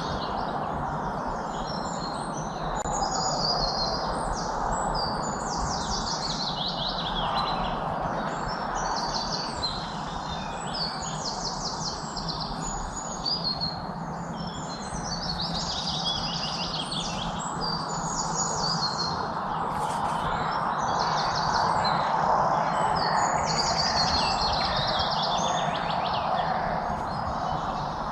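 Several songbirds singing overlapping high trills and quick down-slurred phrases, one after another, over a steady background rush.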